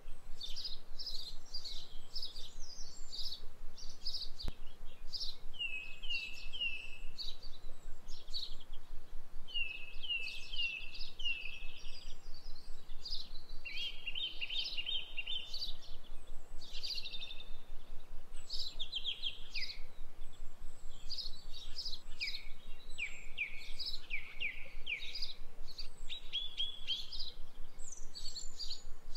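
Small birds chirping and twittering, in quick runs of short falling notes, over a faint steady background.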